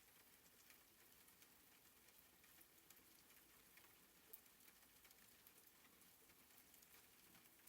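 Very faint soft rain, a steady patter of fine drops, with one slightly sharper drop about four seconds in.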